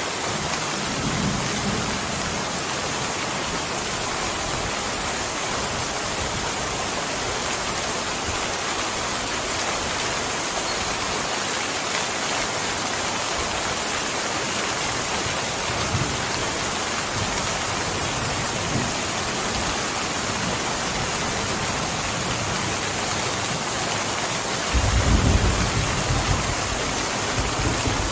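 Steady heavy rainfall hissing evenly, with a low rumble of distant thunder near the end and a fainter rumble about a second in.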